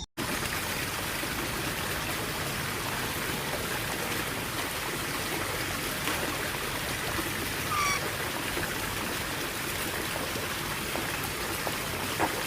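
Steady rushing of flowing water, like a stream, with one short falling bird call about eight seconds in.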